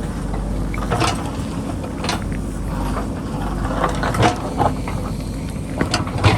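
JCB backhoe loader's diesel engine running steadily, with irregular clanks and knocks as it works the hillside, the loudest just before the end.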